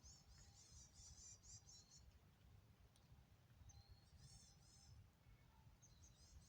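Faint, quick high-pitched chirping from a small songbird in three short runs, over a steady low rumble.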